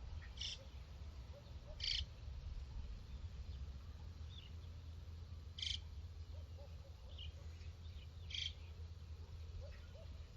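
Birds calling: four short, harsh calls spaced a few seconds apart, with fainter lower calls in between, over a steady low rumble.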